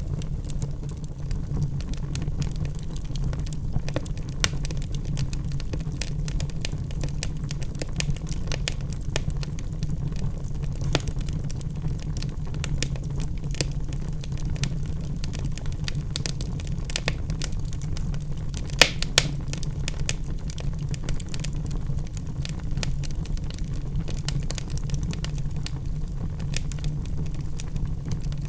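Logs burning in a fireplace: a steady low rumble of flame with frequent sharp crackles and pops scattered irregularly, two of the loudest pops coming close together about two-thirds of the way through.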